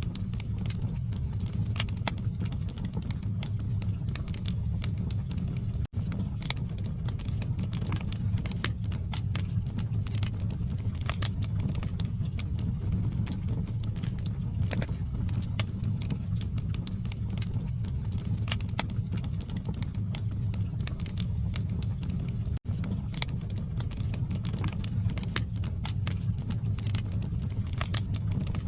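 Log fire in a fireplace burning with a steady low rumble and frequent sharp crackles and pops from the wood. The sound cuts out for an instant twice.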